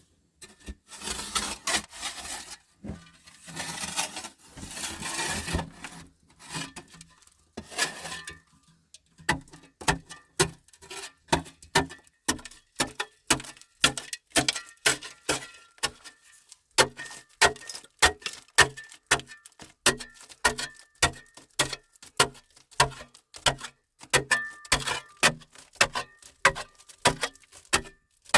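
Several seconds of rough scraping or rubbing, then a steady run of sharp knocks, about two a second, each with a slight ringing: a hand tool striking repeatedly during shelter or camp work.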